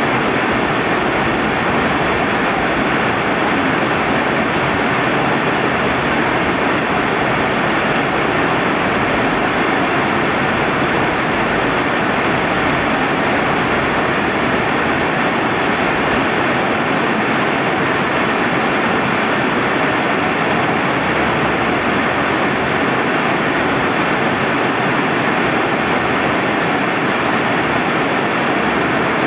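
Rain falling on a riverbank together with the river running: a loud, even hiss that holds steady throughout.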